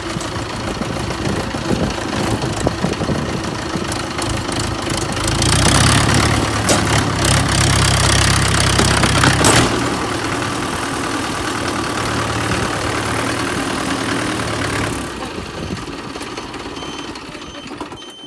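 Mahindra 575 tractor's diesel engine running hard as the stuck tractor tries to pull out of mud. It revs louder for about four seconds in the middle, then settles back and fades away near the end.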